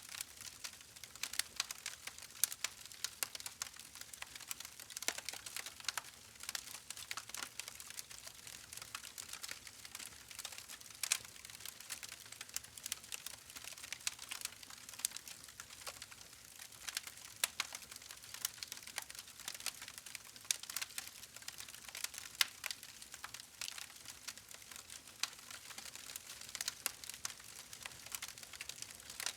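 Wood fire crackling: a steady hiss of burning with many irregular sharp pops and snaps throughout.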